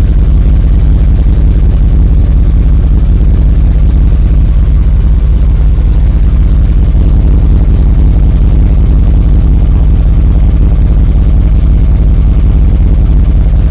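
2001 Dodge Ram's gasoline engine idling steadily, heard up close by the exhaust, which is leaking at the manifold and underneath the truck.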